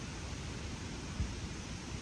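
Wind on the microphone: a steady hiss with an uneven low rumble of gusts.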